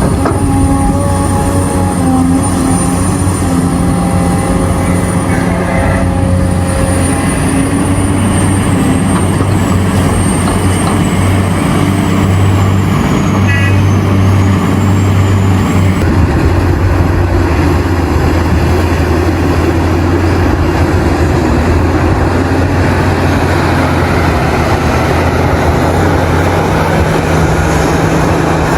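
Heavy mining machinery working: the diesel engines of large excavators and dump trucks running with a steady, loud drone. The sound shifts a couple of times along the way.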